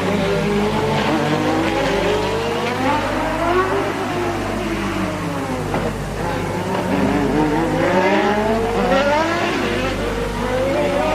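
1988 Formula One cars' engines running at racing speed, the note rising as they accelerate and falling as they ease off, several times over; more than one engine pitch can be heard at once.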